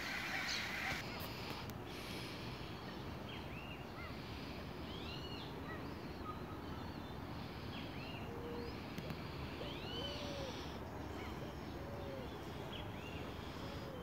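Birds calling: a series of short high calls that rise and fall in pitch, and from about halfway on, lower short arched calls, over a steady low background noise. A hiss cuts off about a second in.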